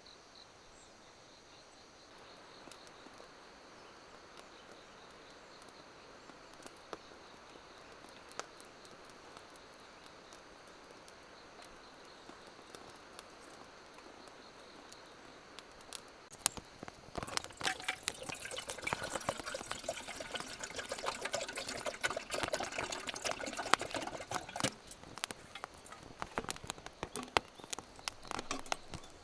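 Faint steady chirring of crickets, then about halfway through a louder run of clattering and splashy crackling that lasts to the end, like water being poured or gear being handled.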